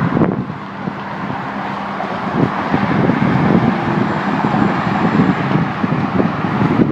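Steady rush of road traffic, with gusts of wind buffeting the microphone.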